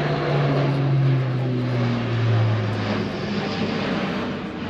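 Airbus A400M Atlas's four turboprop engines with their propellers as the aircraft flies by: a loud propeller drone whose low hum drops in pitch over the first few seconds, then eases off.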